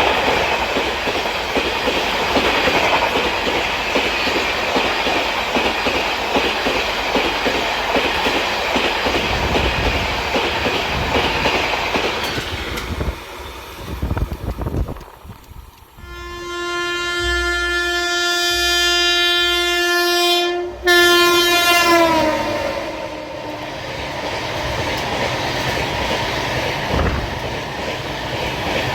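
Express train running through a station at speed, its wheels clattering loudly over the track. After a brief dip, the locomotive horn sounds for about six seconds and drops in pitch at its end as it goes by, and the train then rumbles on more quietly.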